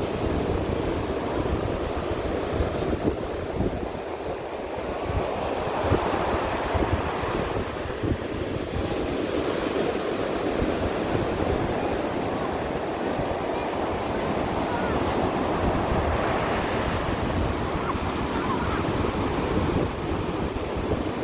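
Ocean surf breaking and washing ashore, swelling and easing over several seconds, with wind buffeting the microphone.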